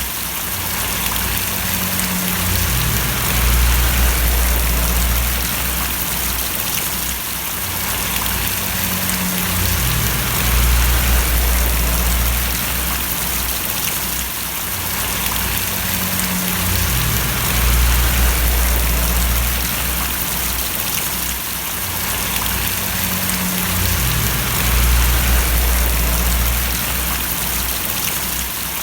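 Steady rain splashing and pattering, with a low rumble that swells and fades about every seven seconds.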